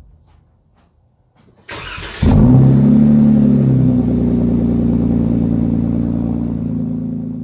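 A vehicle engine starting up: a short burst of noise, then the engine catches about two seconds in, revs briefly and settles into steady running that slowly fades.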